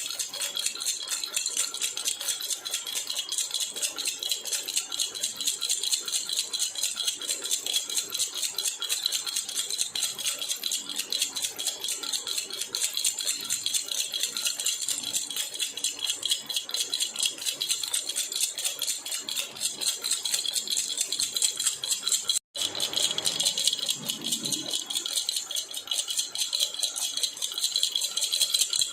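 Jhunjhuna baby rattle shaken rapidly and continuously, a dense, even jingling clatter of small beads or bells, with a momentary break about three-quarters of the way through.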